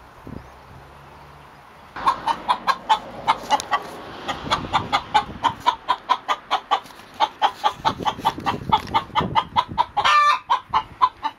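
A chicken clucking agitatedly in a fast, unbroken string of several clucks a second, starting about two seconds in, with one longer, drawn-out squawk near the end: the cackle of an upset, angry hen.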